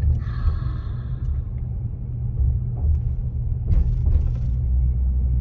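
Car driving slowly, a steady low rumble of engine and road noise, with a brief rattle about four seconds in.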